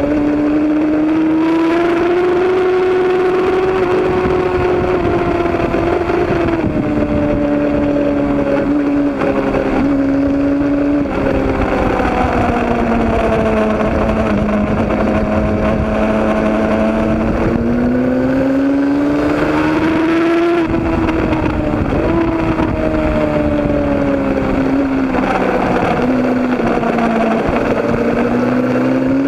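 Road-racing motorcycle engine running hard at high revs, its note slowly rising and falling over the whole stretch, with a few brief breaks in the tone.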